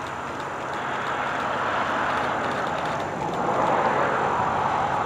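A train rolling past, a steady rushing rumble of wheels on rail that grows louder about three seconds in.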